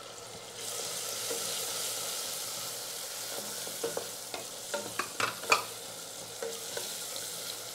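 Onion, tomato and crushed black pepper sizzling in oil in a stainless steel pressure cooker. The sizzle rises about half a second in as a wooden spatula stirs the mix, and the spatula clacks against the steel pot several times midway.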